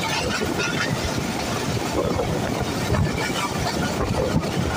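Passenger train coaches running along the track, heard from an open coach window: a steady rumble of the wheels on the rails.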